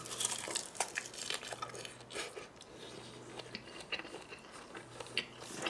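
Close-miked chewing of a mouthful of rice wrapped in dried seaweed, with small irregular crunches and crackles as the seaweed is bitten and chewed.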